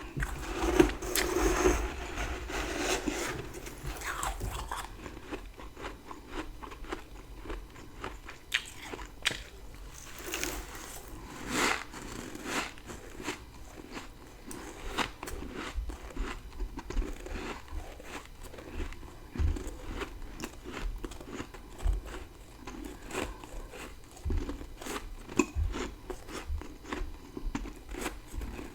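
Close-miked biting and chewing of dry, powdery freezer frost: a long, loud crunch in the first few seconds, then steady crackling chewing with sharper crunches every few seconds.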